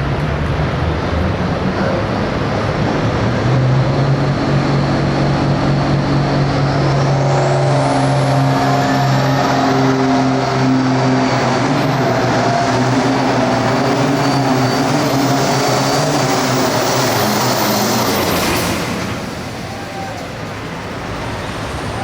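Turbocharged diesel pulling tractor running at full throttle down the track, its engine loud and steady, with a high whistle climbing over a few seconds. About nineteen seconds in, the engine backs off and the sound drops.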